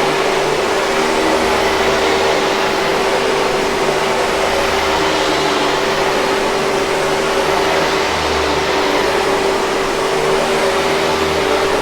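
Hoover 5000 Series canister vacuum running steadily: an even rush of air with a constant motor hum.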